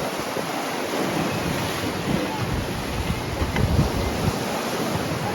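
Wind blowing across the microphone: a steady loud rush with gusty low buffeting.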